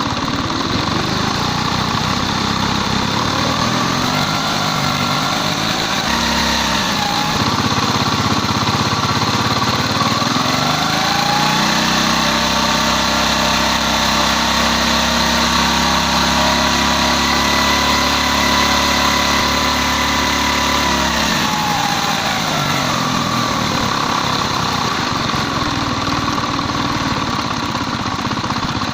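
Small carburettored motorcycle engine running during carburettor idle and mixture tuning. It idles, rises to a higher speed a little before halfway, holds there steadily for about ten seconds, then settles back to idle.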